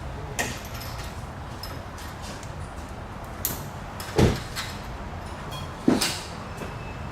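Knocks from work: a few light clicks and two louder clunks, about four and six seconds in, over a steady low hum.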